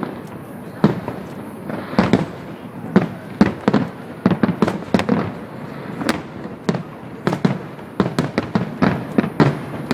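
Aerial fireworks bursting in quick, irregular succession: a dense string of sharp bangs, several a second, with some louder booms among them.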